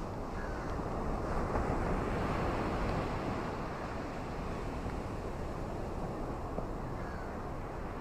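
Ocean surf washing onto a beach: a steady rush of waves that swells a second or so in, then eases off.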